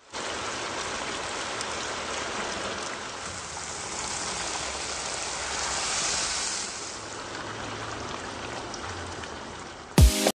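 Steady sizzling of peas and masala frying in a pan as they are stirred. Near the end a short, loud sound sweeps sharply down in pitch and cuts off.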